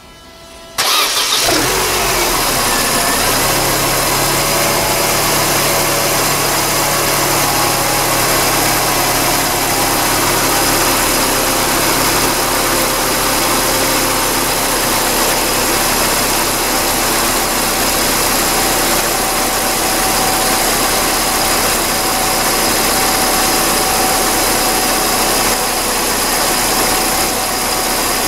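Mercedes CLK 230's supercharged 2.3-litre four-cylinder engine starting about a second in, then idling steadily, the engine speed settling over the first few seconds. It is the first run after the camshaft adjuster magnet was replaced.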